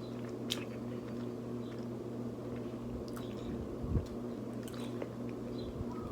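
Close-miked eating: wet chewing and squishing of food in the mouth, with a few short clicks and a dull thump about four seconds in.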